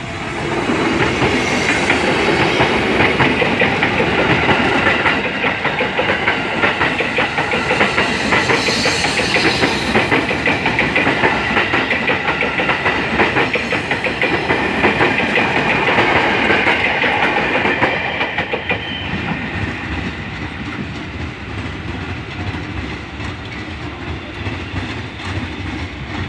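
Electric commuter train passing close by, its wheels clattering rapidly over the rail joints with a steady high whine. It grows quieter after about eighteen seconds as the last cars go past.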